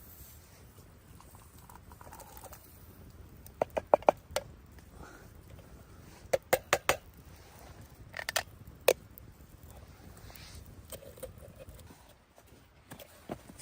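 Three short clusters of sharp knocks, several quick strikes in each, about two seconds apart, over a faint steady background.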